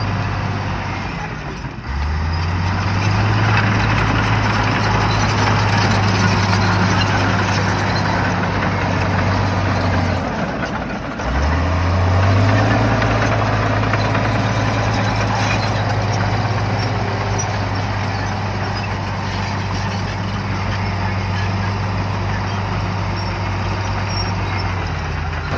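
Shantui bulldozer's diesel engine running under load, with clatter and scraping noise over it. Twice the engine note sags and climbs back up, about two seconds in and again about eleven seconds in.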